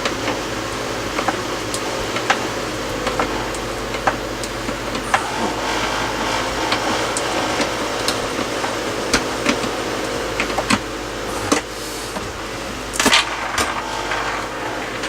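A steady mechanical hum with scattered sharp clicks and knocks, and a louder cluster of knocks near the end, as wooden cabinet panelling is worked loose.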